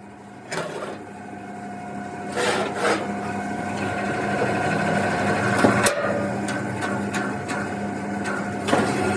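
A steady machine hum that grows gradually louder, with a few sharp knocks over it.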